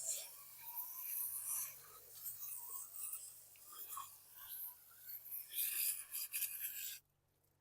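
Irregular scrubbing and hissing from cleaning a lawn mower carburetor's float bowl, uneven in loudness, cutting off abruptly near the end.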